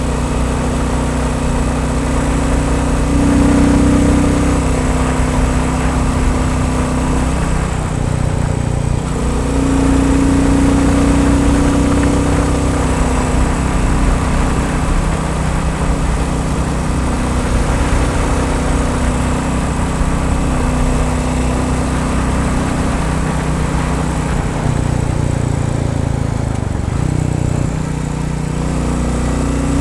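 Royal Enfield Bullet 350's single-cylinder four-stroke engine running steadily, its note stepping up and down a few times as the revs change.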